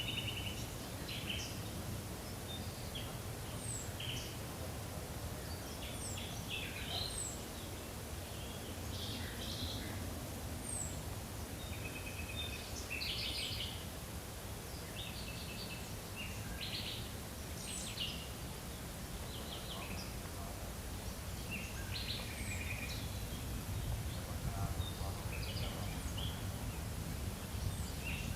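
Songbirds singing and calling in a forest: many short chirps, trills and thin high down-slurred whistles, scattered irregularly, over a steady low rumble.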